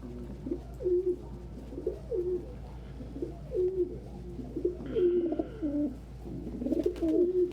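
Domestic pigeons cooing, several birds' low warbling coos repeating and overlapping.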